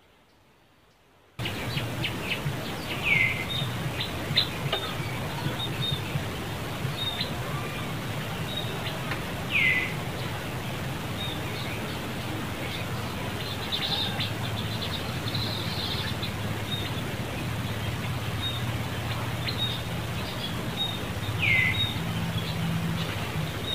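After about a second and a half of near silence, outdoor ambience with birds: a short, high, falling whistled call repeats three times, among scattered faint chirps and ticks over a steady low hum.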